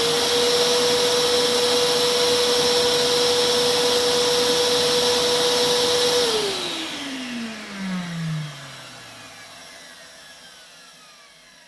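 Vax 6131t Multivax vacuum cleaner running on its freshly fitted replacement motor, a loud steady whine. About six seconds in it is switched off and the motor winds down, its pitch falling as it fades away.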